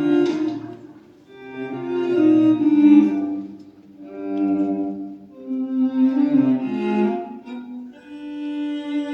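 Cello and violin playing slow, sustained phrases that swell and fade, three of them with short dips between.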